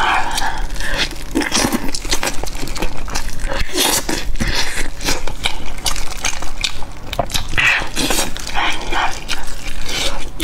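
Close-miked wet chewing and lip-smacking while eating chili-coated chicken, with irregular smacks and clicks throughout and soft tearing of the meat by hand.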